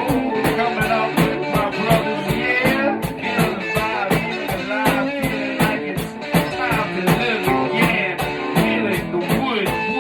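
Band music in a blues-rock vein: guitar playing over a steady drum beat.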